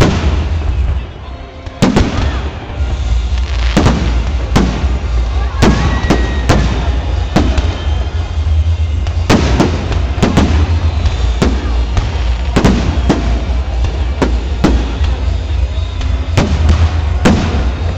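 Fireworks display: aerial shells bursting in a rapid series of sharp bangs, about one every half second to a second, over a steady low rumble.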